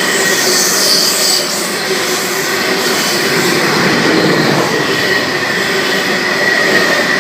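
Freight train wagons rolling past at close range, loud and steady, with a constant high-pitched wheel squeal over the rumble of the wheels on the track.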